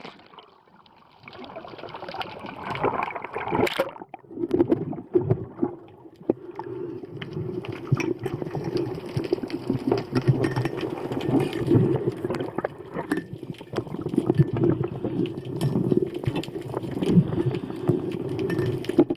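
Water sloshing and gurgling around a spearfisher's camera in the sea, with scattered small clicks. There is a single sharp knock a little before four seconds in.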